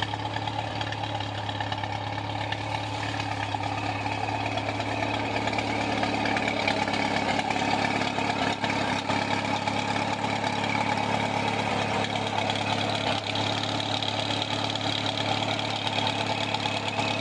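Oliver Super 55 tractor engine idling steadily, getting a little louder about five seconds in.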